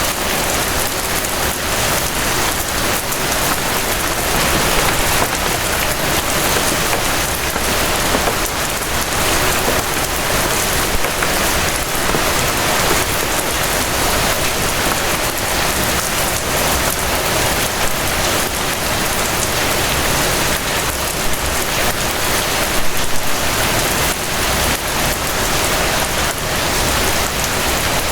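Gentle rain falling steadily: a continuous even hiss of rain on a surface, with many small raindrop patters.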